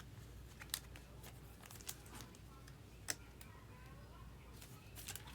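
Trading cards being handled: faint, scattered sharp clicks about a second apart over a light rustle as cards are slid and set down.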